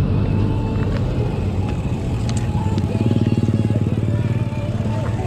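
Motorcycle engine running on the road, a steady low rumble with a rapid pulsing that strengthens about three seconds in, with faint music over it.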